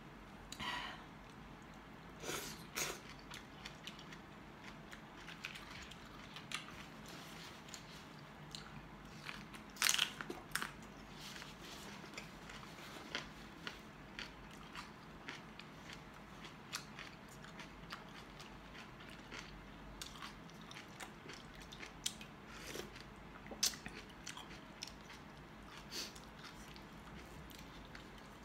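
A person biting and chewing bok choy leaves and chicken from the soup, with faint crunches and mouth clicks at irregular intervals. The loudest cluster comes about ten seconds in.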